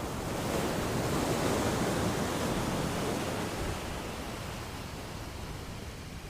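Ocean waves washing onto a beach: the surf swells over the first second, holds, then slowly fades as the wave recedes.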